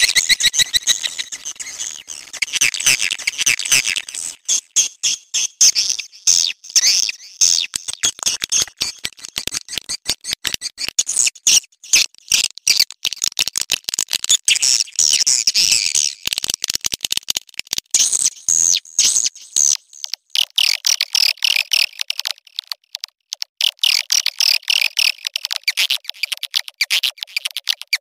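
Swiftlet mating and calling sound: a fast, dense chittering of many short, high-pitched chirps and clicks a second, the recorded call used to lure edible-nest swiftlets.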